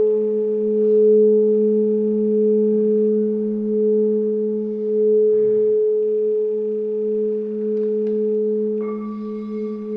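Crystal singing bowls ringing together in a long, steady drone of two low tones with a slow wavering pulse; about a second before the end a higher tone joins in.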